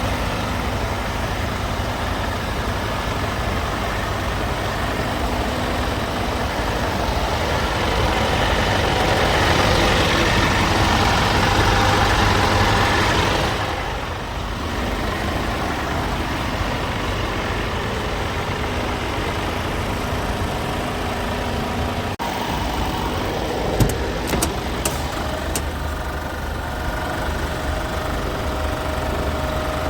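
Scania P320 truck's nine-litre five-cylinder diesel engine idling steadily. About a third of the way in it climbs in revs for several seconds, then drops suddenly back to idle. A few short sharp clicks come later on.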